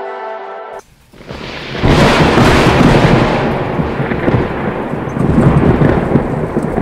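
Background music ends within the first second; about two seconds in, heavy rain starts, loud and dense with a deep low rumble.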